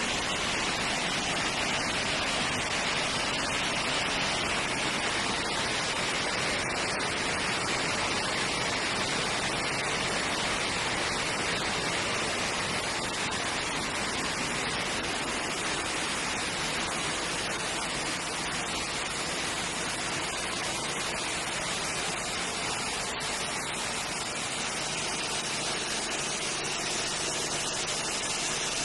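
Roasted hazelnut skin-peeling machine running: a steady, dense rushing noise scattered with many small ticks.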